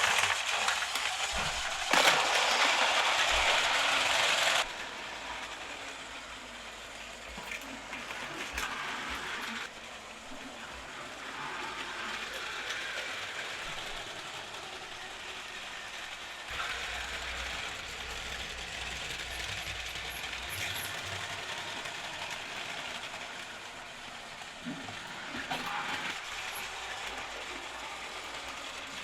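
Battery-powered Plarail toy trains running on plastic track, with small motors and gears whirring and wheels clattering. It is loud for the first few seconds, then drops off suddenly to a quieter, steady running noise.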